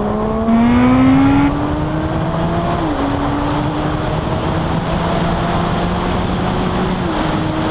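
Suzuki GSX-R 1000's inline-four engine accelerating hard through the gears, its pitch climbing and dropping at upshifts about three and seven seconds in. Wind rushes over the microphone throughout.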